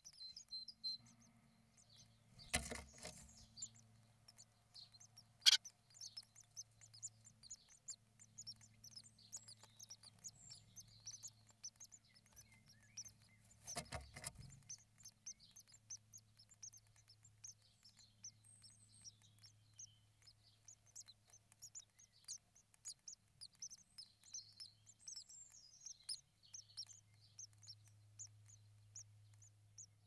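Small birds chirping: many short, high cheeps in quick succession, over a low steady electrical hum in the nest-box microphone. Two soft knocks or rustles stand out, one about two and a half seconds in and another around fourteen seconds.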